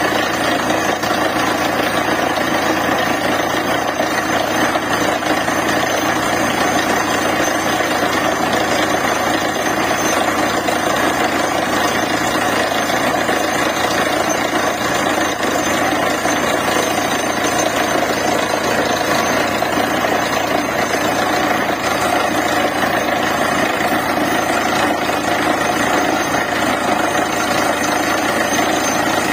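Borewell drilling rig running steadily with a loud, unbroken mechanical din of engine and drilling.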